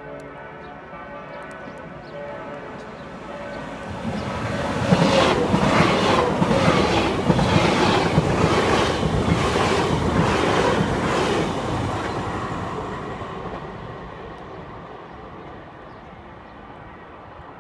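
Electric passenger train passing through the station at speed: a rush of wheels on rails builds from about four seconds in, peaks as the carriages go by close with a rhythmic beat of wheelsets over the rails, then fades as the train moves away.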